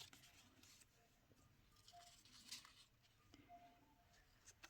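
Near silence with faint rustling and light taps of sticker sheets and packets being handled, loudest just after the start and about two and a half seconds in.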